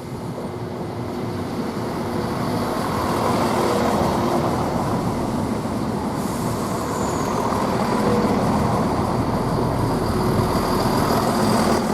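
CrossCountry Class 170 Turbostar diesel multiple unit running into the platform with its underfloor diesel engines droning, growing louder over the first few seconds and then holding steady.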